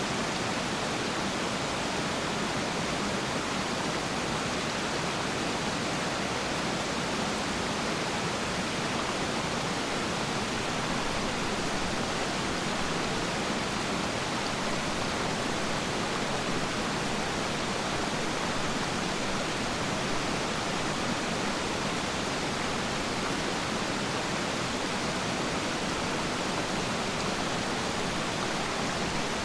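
Steady rushing of water at Peiran Falls, an even, unbroken hiss with no changes.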